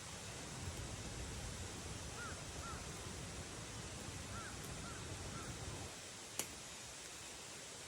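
A bird gives short, faint, arched calls: two about two seconds in and three more between about four and five and a half seconds, over a steady hiss of outdoor noise. One sharp snap sounds about six and a half seconds in.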